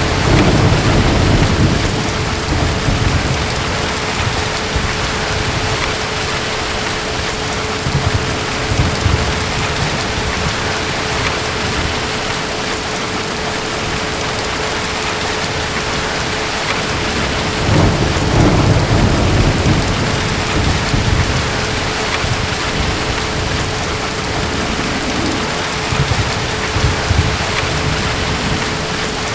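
Steady heavy rain with distant thunder rumbling low several times: once at the start, again briefly, most strongly about two-thirds of the way through, and once more near the end.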